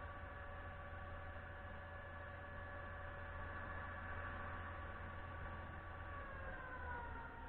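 Concrete pump truck running steadily with a pitched machine tone, which falls in pitch about six seconds in as the machine slows.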